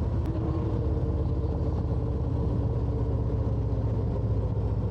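Harley-Davidson Road Glide's V-twin engine running steadily while cruising, with no change in pitch or level.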